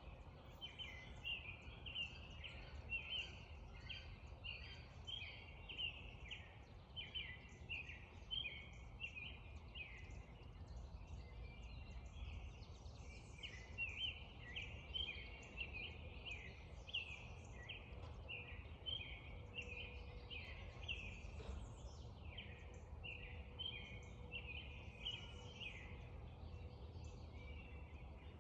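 Spring dawn chorus of songbirds: many short chirping notes overlapping without pause, over a steady low rumble.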